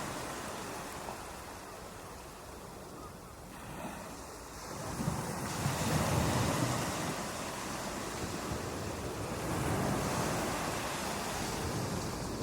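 Ocean waves breaking on a beach: the surf ebbs to a lull, then a wave breaks and washes in about five seconds in, with another surge near ten seconds.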